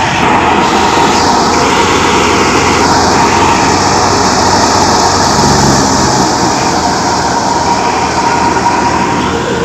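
New Holland NH 480 tractor's engine running loudly and steadily, a dense mechanical noise with a faint steady whine through it.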